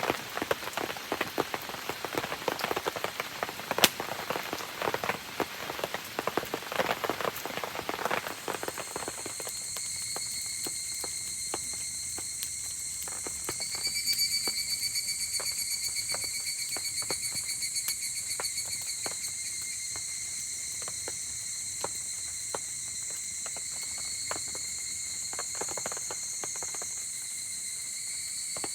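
Rain pattering densely with scattered sharp crackles; about nine seconds in, the rain thins and a chorus of insects takes over, trilling steadily at several high pitches, with occasional sharp clicks on top.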